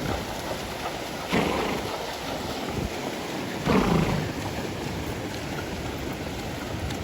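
Wind buffeting the microphone: a steady rumbling hiss with two stronger gusts, about a second in and again near four seconds.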